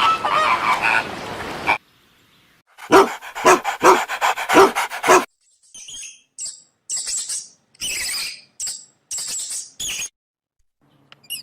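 Dogs barking: a noisy stretch, then a quick run of sharp barks, then a series of short high-pitched yelps. The parts are separated by dead silence, as if several clips were cut together.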